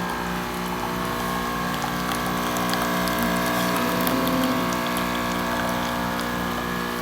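Small capsule coffee machine brewing: its pump hums steadily with an even pulsing throb while coffee runs into the cup. It keeps running for a long-press, extra-large cup.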